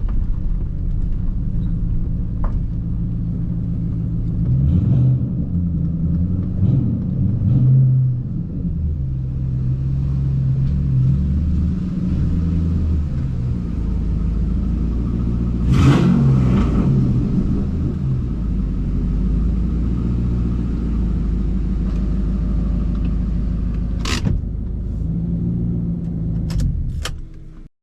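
2010 Ford Mustang GT's 4.6-litre three-valve V8 running on the move, its note stepping up and down in pitch as it drives. A few sharp knocks come through partway in and near the end, and the sound cuts off suddenly just before the end.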